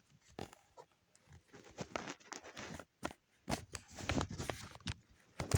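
Lego plastic parts being handled: irregular clicks, knocks and brief scrapes of pieces on the model.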